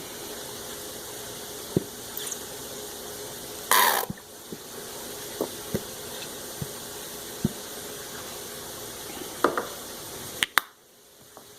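Ketchup squirted from a squeeze bottle in one short sputter about four seconds in, with scattered light clicks of bottle and utensils. Under it runs the steady hiss of chicken frying in oil, which drops away near the end.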